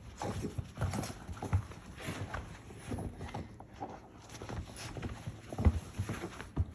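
Staffordshire bull terrier puppy tussling with a large ball: irregular thumps and knocks as the ball bumps about and her paws scrabble, the loudest thump near the end.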